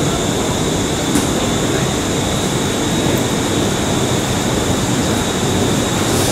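Electric train running: a steady rumble and hiss with a faint high whine held at one pitch, and a couple of light clicks.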